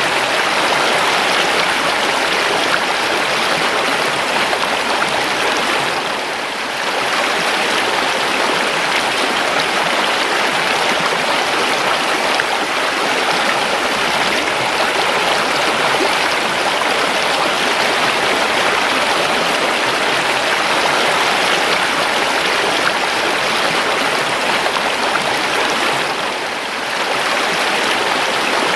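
River water flowing steadily, an even rushing sound that dips briefly twice.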